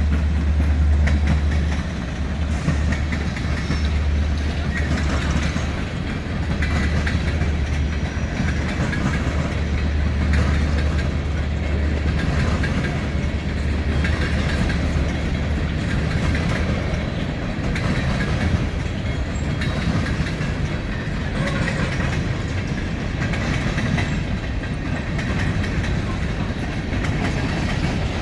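Miniature ride-on train running along its track, the wheels clicking over the rail joints. A steady low hum is under it and drops away about 16 seconds in.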